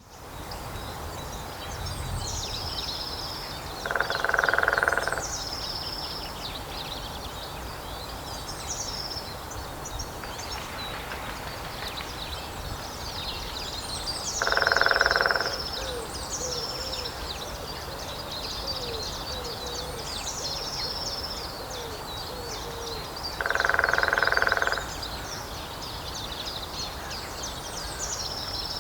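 Lesser spotted woodpecker drumming on the trunk of a dead tree: three rapid drum rolls, each about a second long, spaced roughly ten seconds apart. Other birds sing steadily in the background throughout.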